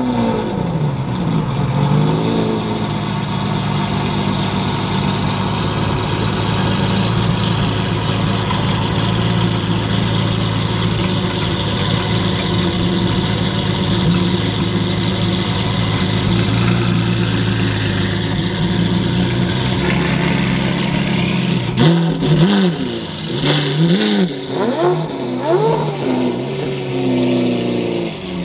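Car engine idling with a steady low tone, then revved in several quick blips over the last few seconds.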